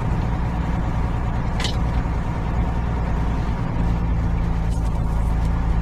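Semi truck running down the road, heard from inside the cab: a steady low engine drone with road noise, and one brief high click about a second and a half in.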